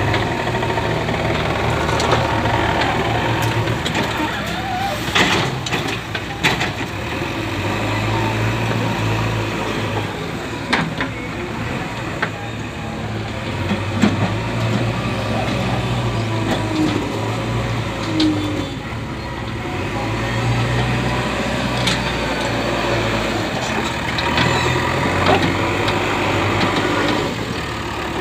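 JCB 3DX backhoe loader's diesel engine running under working load, its note swelling and easing every few seconds, with scattered sharp clanks.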